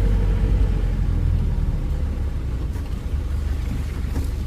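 Steady low rumble of a Mahindra Thar 4x4 on the move, with a faint steady tone that fades out in the first half second.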